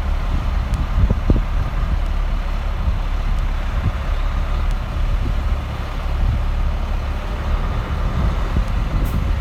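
2007 Freightliner M2 106 truck's diesel engine running steadily, with a low drone and occasional light knocks.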